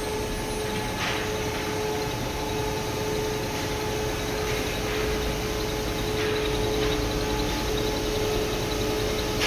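CNC router's 9 kW spindle running with a steady high whine over continuous machine noise, with a few faint soft swells.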